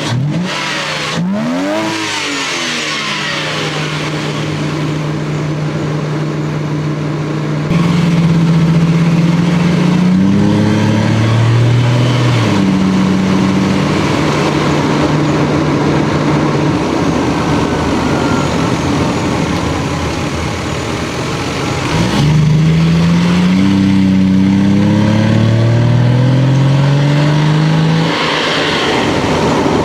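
Stock Lexus GS300's 2JZ inline-six engine and exhaust under way, at a steady pitch for long stretches. Twice it grows louder under acceleration, the pitch climbing and dropping back in steps as the transmission shifts up.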